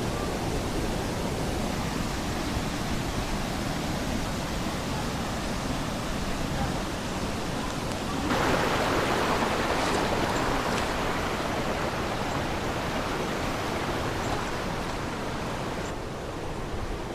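Steady rush of flowing creek water. It gets louder and brighter about eight seconds in and drops back again near the end.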